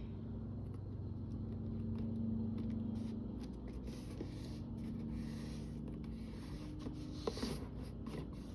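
Soft, irregular scraping and rubbing on paper as glued paper is worked by hand, over a steady low hum.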